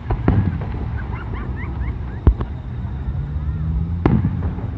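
Aerial firework shells bursting: three sharp bangs with an echoing tail, the loudest about two seconds in.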